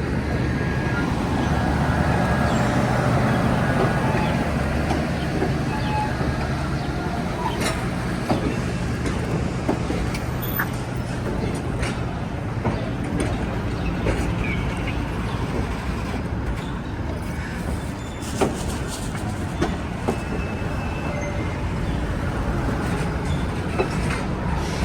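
Excursion train running along the track: a steady low running sound with scattered clicks and knocks from the rails.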